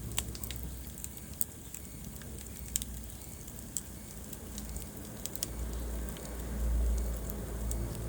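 Wood fire crackling in a fireplace, with sharp pops scattered irregularly over a low rumble that swells about six seconds in.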